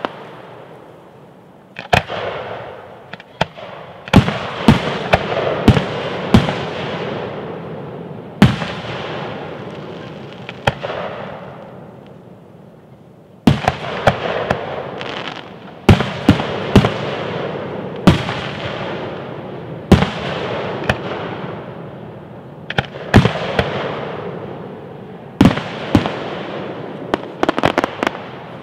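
Aerial fireworks bursting: sharp bangs coming in clusters every second or two, each followed by a fading wash of sound that dies away over a few seconds. There is a short lull about halfway through before a new volley starts.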